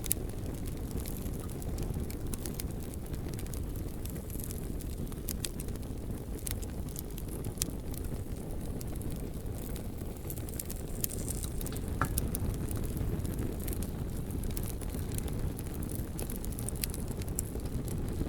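Campfire burning, with sharp irregular crackles and pops of burning wood over a steady low rumble.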